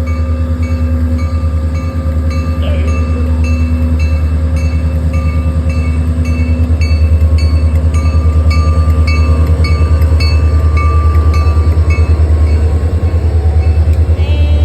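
Diesel freight locomotive running past with a deep steady engine rumble while its old-style bell rings about twice a second. The bell stops near the end.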